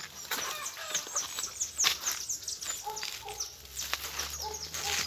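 Small birds chirping in quick, high, falling notes, mixed with a few sharp knocks, the loudest about two seconds in.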